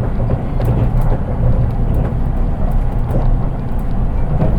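Running noise inside an unpowered driving trailer car of a JR East 183 series electric train: a steady, fairly plain rumble of wheels on rail, with no traction motor sound.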